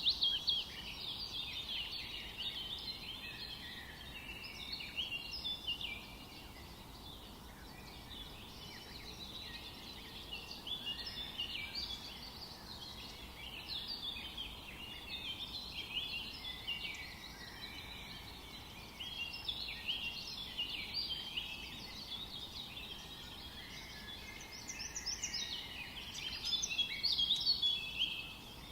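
Several forest songbirds singing at once: a continuous chorus of overlapping high chirps and short trills, over a faint steady background hiss.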